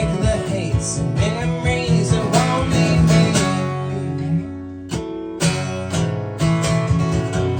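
Live acoustic guitar strummed in waltz time, with a wavering melody line over it for the first half. The music softens briefly, then a fresh strum comes in about five seconds in.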